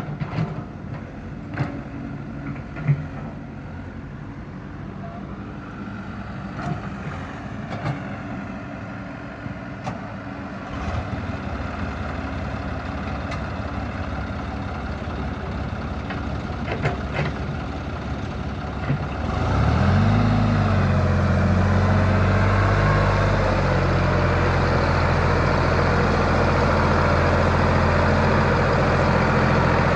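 Sonalika DI 35 RX tractor's diesel engine running, with scattered knocks and clatter over a low hum at first. About two-thirds in it suddenly gets much louder, rises briefly in pitch, then runs steadily.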